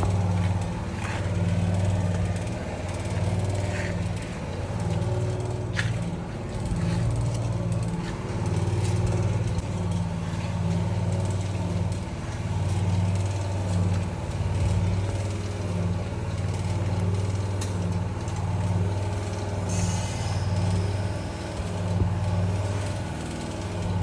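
Generator engine running steadily, a low hum that swells and fades every couple of seconds, with a few faint clicks.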